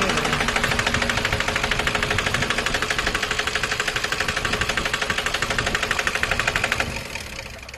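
Toyota Hilux Vigo Champ diesel engine running with an abnormally loud, fast, even knock, dying down near the end. The fault is the kind that the owner treats by replacing the fuel pump's suction control (SCV) valve and cleaning the injectors.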